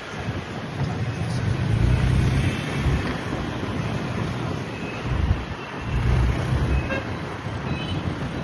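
Busy street traffic heard from a moving motorbike, with wind gusting on the microphone and a few short horn toots about seven seconds in.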